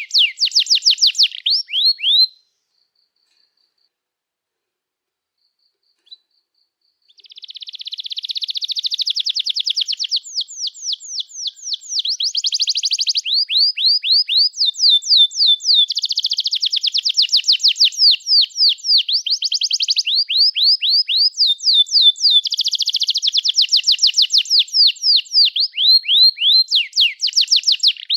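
Domestic canary singing long song tours: rows of quick falling chirps alternating with rapid, dense trills. The song cuts off about two seconds in and there are a few seconds of silence before the singing starts again.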